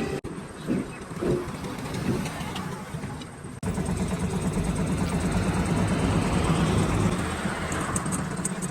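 A vehicle engine idling with a steady, evenly pulsing run from about three and a half seconds in, after an abrupt cut. Before that come a few irregular knocks and clatter.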